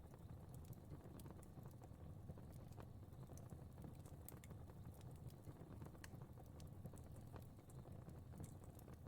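Faint fireplace fire crackling: irregular small pops and snaps over a steady low rumble.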